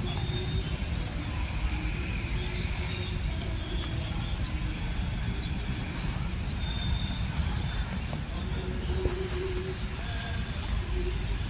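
Steady rumble of road traffic, with cars running past.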